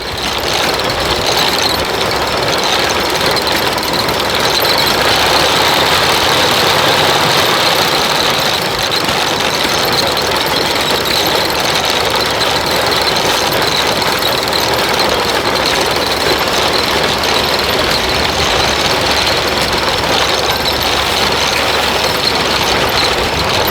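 Belt-driven antique peanut thresher running steadily as it threshes peanut vines, with the engine that drives its belt: a continuous mechanical clatter and hiss with no pauses.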